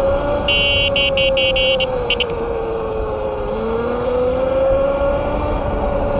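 48-volt electric dirt bike's motor whining as it rides, the pitch dipping a little and rising again with speed, over a low rumble. Near the start, a quick run of high chirping beeps, about seven in a row and then two more.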